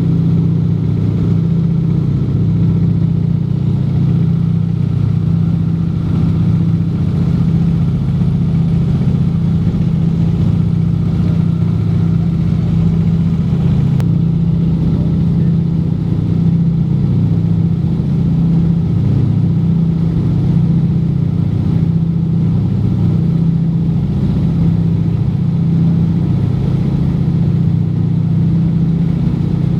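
Junkers Ju 52 trimotor's three radial engines running steadily in cruise, a loud low hum with a slight pulse, heard from inside the cabin.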